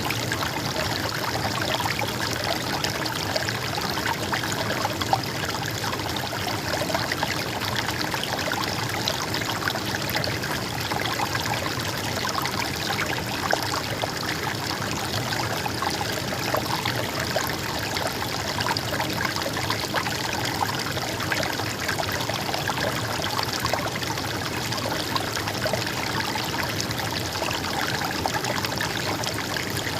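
Stream water flowing and trickling steadily, a constant even rush with small splashes.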